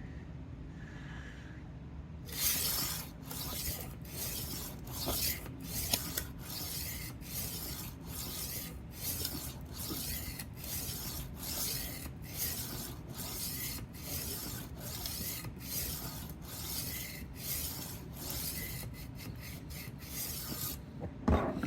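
A rolling knife sharpener's abrasive disc is rolled back and forth along the steel edge of a 12-inch Henckels chef knife, giving a rasping stroke about once a second. The strokes grind the edge until a burr forms along it. A few quicker short strokes come near the end, followed by a knock.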